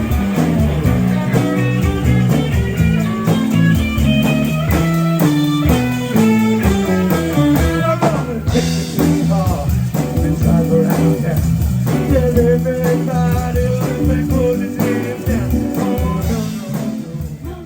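Blues-rock band music led by electric guitar over bass and a steady drum beat, with a cymbal crash about halfway through; the music fades out at the end.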